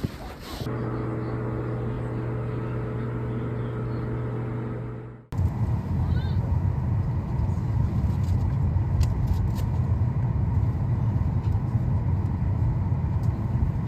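A vehicle engine running with a steady low hum. After a sudden cut about five seconds in, it gives way to a louder, rougher low rumble of vehicle noise.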